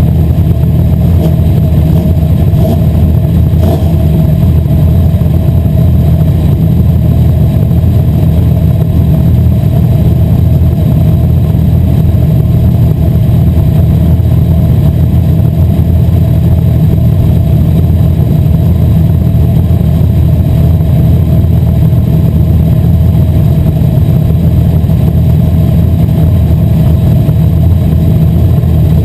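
Asphalt modified race car engine running loud and steady throughout, with no clear rise or fall in pitch.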